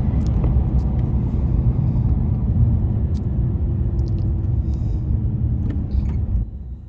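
Truck driving on a highway: steady low road and engine rumble with a few faint clicks, dropping noticeably quieter near the end.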